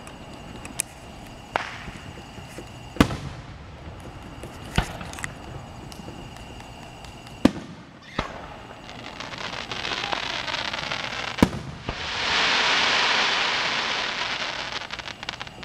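Aerial fireworks shells bursting: a string of sharp booms at uneven intervals, then a loud, dense crackling from about twelve seconds in as glittering crackle stars go off, fading near the end.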